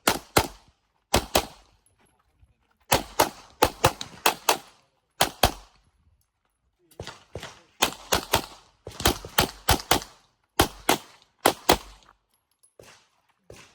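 Rapid gunfire from a shooter running an IPSC course of fire, with shots mostly in quick pairs, in several strings separated by short pauses. It stops about twelve seconds in.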